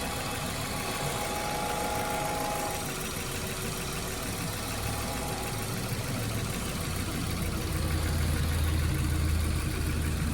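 Car engine idling with the air-conditioning compressor running, a steady hum that swells slightly from about seven seconds in.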